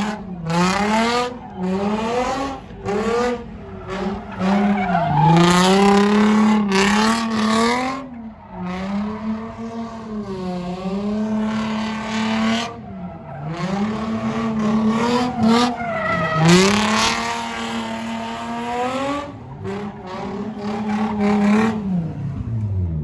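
Car engine held at high revs during a burnout, its pitch dipping and climbing back several times, with tyres squealing and skidding, loudest about six and seventeen seconds in.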